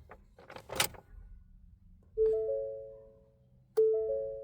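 Ford F-150 dashboard warning chime sounding twice, each a three-note chime fading away, after a few sharp clicks in the first second. The clicks come as the key is turned and the starter only clicks without cranking the engine.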